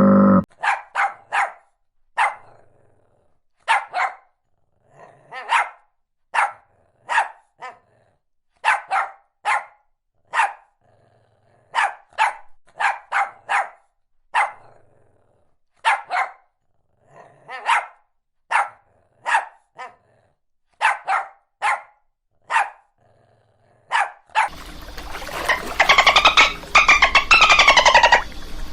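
Dog barking repeatedly, one to three quick barks at a time with short pauses between. About four seconds before the end, the barking gives way to a louder rushing noise.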